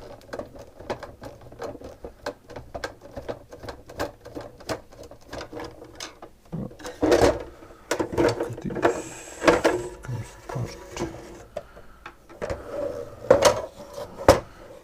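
Disassembly of a plastic SodaStream soda maker: a fast run of small, even clicks for the first half, then several louder knocks and clunks of the plastic housing and parts being handled, each knock leaving a short ring.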